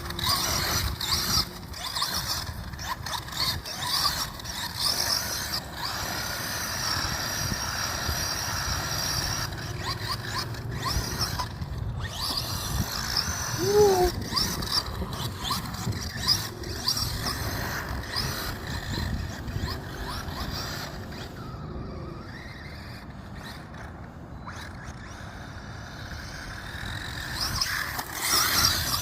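Radio-controlled car being driven, its motor whining high and rising and falling as it speeds up and slows, with tyres running over rough ground.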